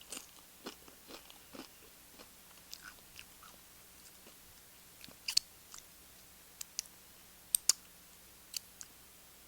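Close-up eating sounds of tortilla chips with queso dip: crisp crunches and crackles of chips being bitten and chewed, irregular, with a few sharper, louder crunches in the second half.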